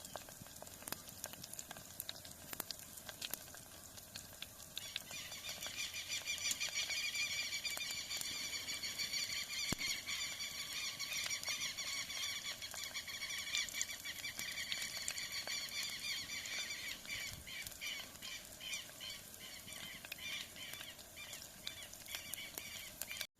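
Insect buzzing: a high-pitched drone starts about five seconds in, holds steady, then breaks into rapid pulses over the last several seconds.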